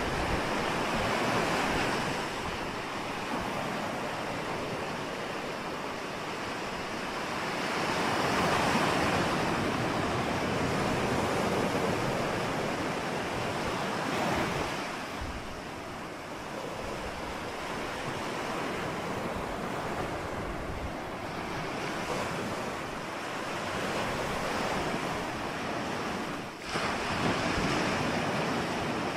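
Ocean surf washing continuously, swelling louder and easing off every several seconds as waves break.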